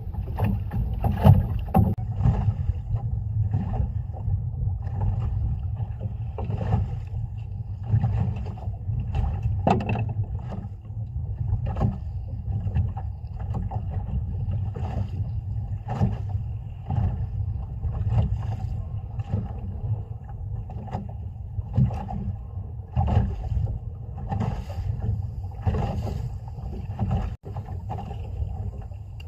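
Small boat at sea: water lapping and knocking against the hull, a steady low rumble of wind and sea, with frequent irregular knocks and clicks.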